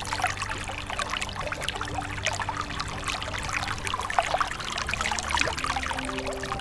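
Water splashing and trickling, a dense, steady crackle of small splashes.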